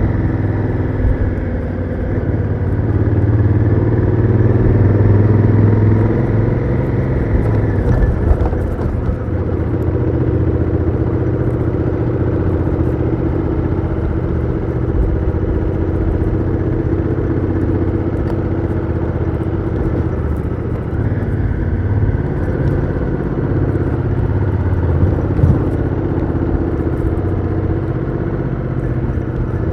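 Honda Africa Twin CRF1000L's parallel-twin engine running through its stock exhaust, heard from on board the moving motorcycle, its note shifting slightly in pitch as the ride goes on.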